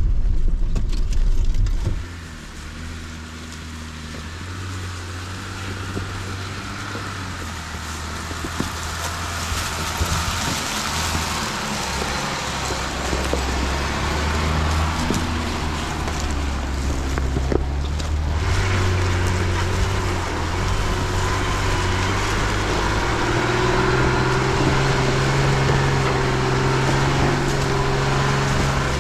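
Jeep Gladiator Rubicon's engine running at low speed as the truck crawls along a rough off-road trail, its note stepping up and down with the throttle, over a steady noise of tyres on the trail.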